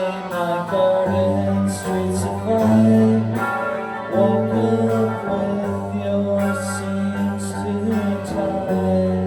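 Live band music: guitar playing over a bass line that moves through long held notes, with cymbal splashes.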